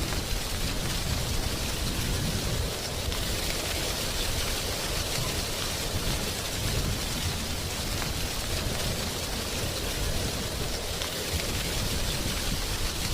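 Wind blowing through dry tree leaves: a steady rustle with a low rumble underneath, easing a little and building again.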